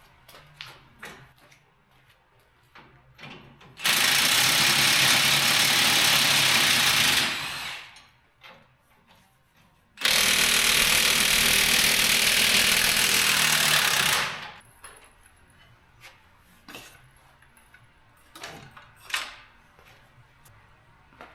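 Impact wrench running in two bursts of about four seconds each, a few seconds apart, undoing bolts; light tool clinks and knocks between the bursts.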